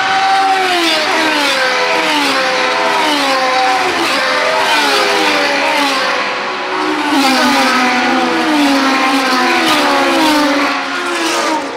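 Several historic Formula Junior racing cars running together, their engines revving up and dropping back again and again as they change gear, with several engine notes overlapping. The sound cuts off suddenly at the end.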